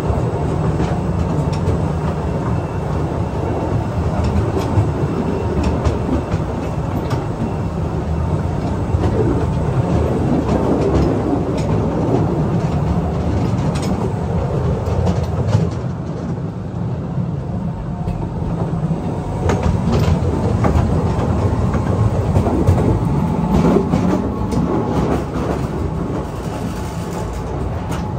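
Postojna Cave's small narrow-gauge train running along its track through a rock tunnel: a steady rumble of wheels on rail with frequent clicks and knocks over the rail joints.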